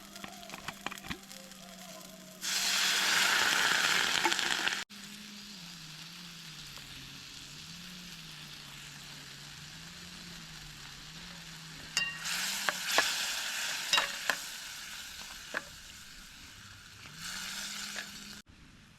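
Food sizzling and frying in a hot pan, with a few sharp taps as it is stirred or turned; the sizzle swells loudly a few times and breaks off abruptly where shots are cut together.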